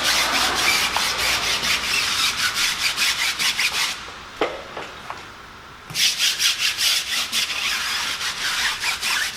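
Stiff-bristle brush scrubbing a wet, cleaner-soaked car wheel in quick back-and-forth strokes. The scrubbing stops for about two seconds around four seconds in, with a single light knock in the pause, then starts again.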